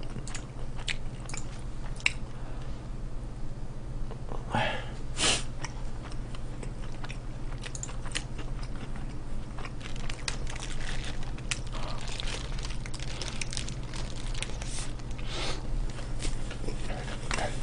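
A person biting and chewing fast food close to the microphone, with scattered crunchy clicks, over a steady low hum.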